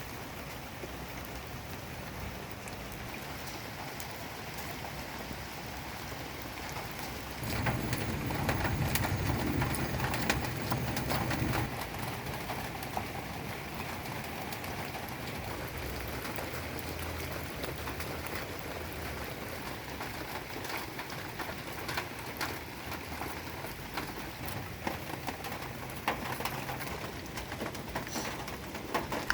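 Steady rain falling, with a louder, deeper stretch of noise from about 7 to 12 seconds in.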